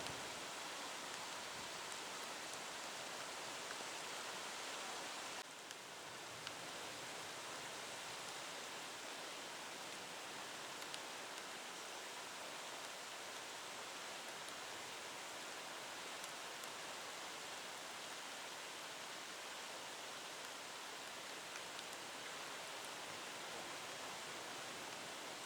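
Steady hiss of heavy typhoon rain and wind, with a few faint ticks; it dips a little about five seconds in.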